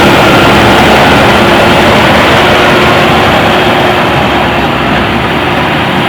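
JCB backhoe loader's diesel engine running steadily and loud, easing off slightly near the end.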